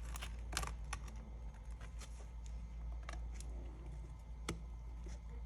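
Scattered small clicks and taps of hands and tools working a part of an opened iPad loose, over a low steady hum.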